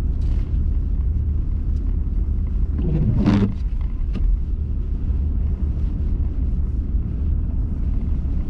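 Car driving on a snowy road, heard from inside the cabin as a steady low road and engine rumble. A brief whoosh swells and fades about three seconds in.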